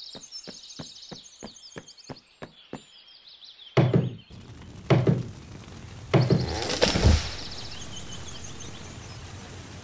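Cartoon sound effects: quick light footsteps with birds chirping, then three heavy axe chops into a tree trunk about a second apart, followed by a crash as the tree falls.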